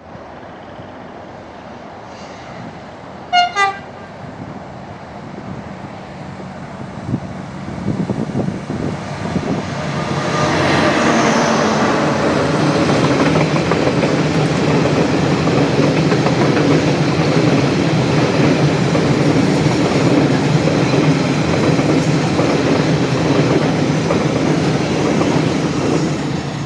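Electro-diesel locomotive FGC 257.05 gives two short horn blasts as it approaches, then passes hauling a freight train. The rumble and wheel clatter build from about seven seconds in and stay loud as the wagons roll by.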